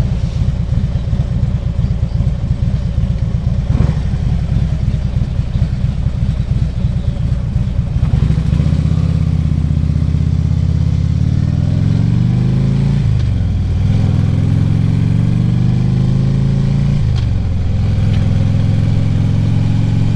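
2014 Harley-Davidson Ultra Classic Limited's V-twin engine under way: a rough low rumble at first, then the engine note climbs as it accelerates, drops sharply at a gear change, climbs again and drops at a second shift near the end.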